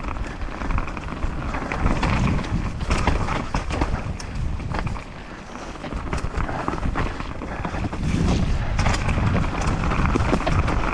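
Mountain bike descending a rough dirt trail: wind buffeting the microphone over tyre noise and a steady clatter of small rattles and knocks from the bike.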